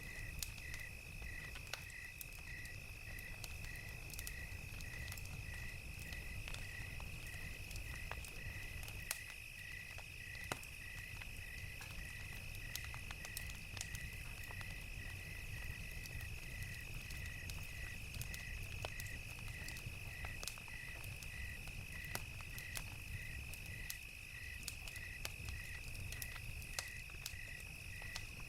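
Crickets chirping in an even rhythm of about two chirps a second over a continuous high insect trill, with scattered sharp crackles from a wood fire and a low steady rumble underneath.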